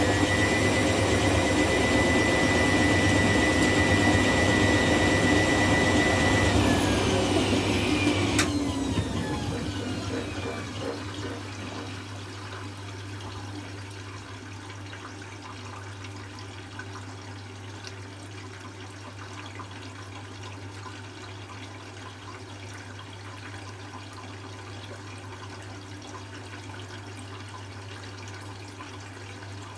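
Hoover Classica 1100 washing machine's 500 rpm spin coasting down: the motor and drum whine slides down in pitch and fades between about 7 and 12 seconds in. Then water runs steadily into the drum for the second rinse, over a low steady hum.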